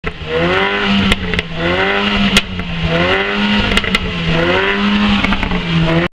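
Car engine accelerating hard, its pitch rising four times in a row with short breaks between the climbs. A few sharp clicks sound over it.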